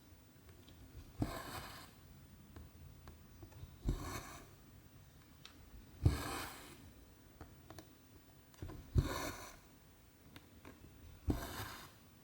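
Needle and cotton thread being drawn through 14-count cross-stitch fabric: five stitches, each a short pop as the needle pierces the cloth and then a brief swish as the thread is pulled taut, every two to three seconds.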